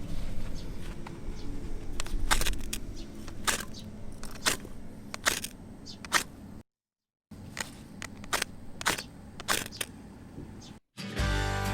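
Wood fire crackling, with irregular sharp snaps and pops over a low rumble. The sound cuts out briefly past the middle, and music starts at the very end.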